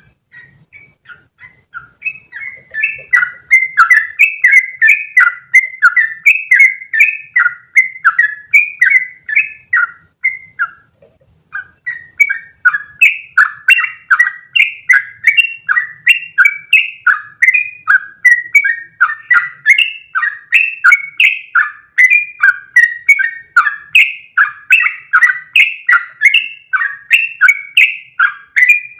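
Yellow-vented bulbul (trucukan) singing a long, fast run of bubbly repeated notes, about three a second. The song builds up over the first two seconds, breaks off briefly about ten seconds in, then runs on unbroken.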